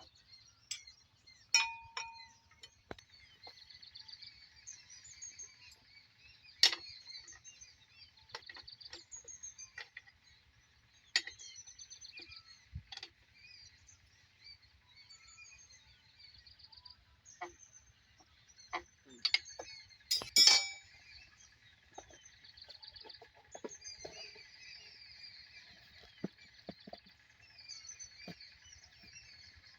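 Birds chirping continuously, with scattered sharp clinks and knocks; the loudest knocks come about 1.5 s, 6.5 s and 20 s in.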